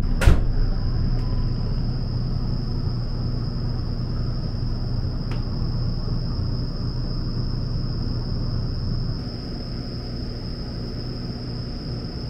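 Low steady hum of a stopped electric express train standing at a platform, with a continuous thin high-pitched tone above it. A sharp click comes just at the start.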